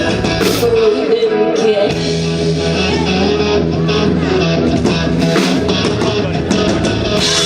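Live band playing an instrumental stretch of a rock song, guitar to the fore over a steady drum beat.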